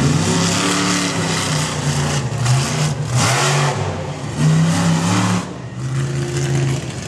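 Monster truck engine revving, the throttle opening and easing off in surges of a second or two, with its loudest blast about three seconds in.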